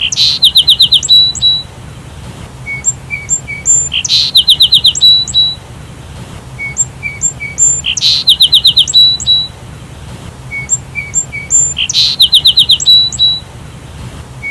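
Sparrow calls: a few short, thin chirps followed by a quick run of about six loud, sharp notes. The same phrase repeats identically about every four seconds.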